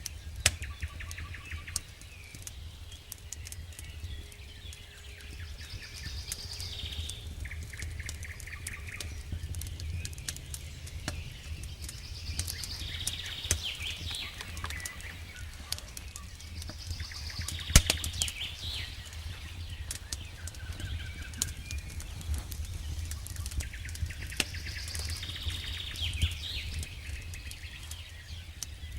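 Campfire wood crackling and popping, with one much louder pop about 18 seconds in, over a low steady rumble of the fire. A bird calls again and again every few seconds in the background.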